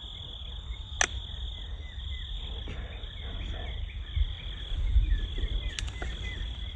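Steady, high-pitched insect trill running without a break, over a low wind rumble on the microphone, with two sharp clicks, one about a second in and one near the end.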